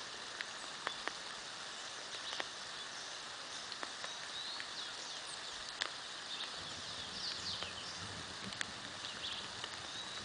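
Steady rain falling, with scattered sharp clicks of drops striking close by and birds chirping through it. A faint low rumble comes in about two-thirds of the way through.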